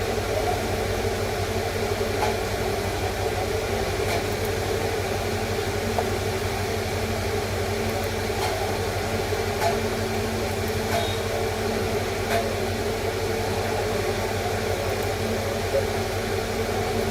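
Steady machine hum with a low rumble, broken by a few faint clicks.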